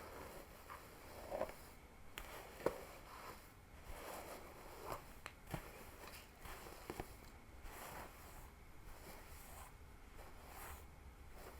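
Fingers scratching a scalp and pulling through hair, close to the microphone: quiet, irregular crackling scratches with a few sharp clicks, the loudest about two and a half seconds in.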